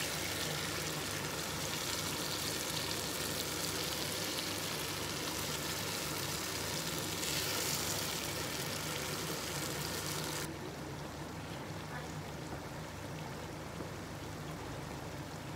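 Fried aubergine and potato slices sizzling in a wok with tamarind paste and lemon juice as they are stirred with a wooden spatula. It is a steady hiss that drops off abruptly about ten seconds in, over a faint steady low hum.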